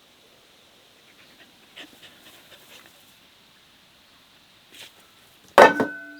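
Soft handling clicks, then near the end a sharp clink of kitchenware that rings on briefly.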